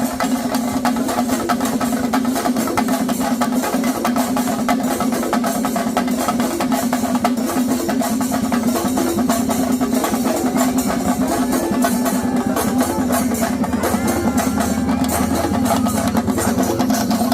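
Fast, continuous drumming with a steady held tone underneath; a wavering higher melody line joins in over the last few seconds.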